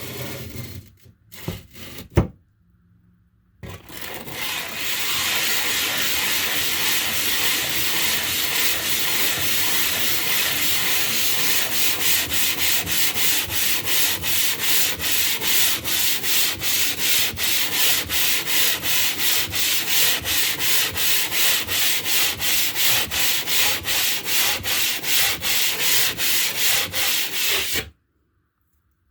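A piece of limestone being rubbed back and forth to grind its face flat: a steady gritty scraping that settles into quick, even strokes, about two or three a second, and stops abruptly near the end. A short sharp knock comes about two seconds in.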